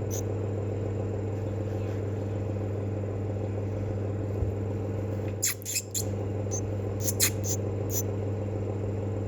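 Parrotfinch chick giving short, high-pitched peeps, a quick cluster about halfway through and a few more near the end, over the steady low hum of a running machine.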